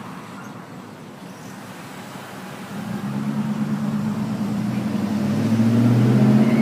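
Motor vehicle engine running, growing steadily louder from about two and a half seconds in over a constant background noise, like a vehicle drawing near.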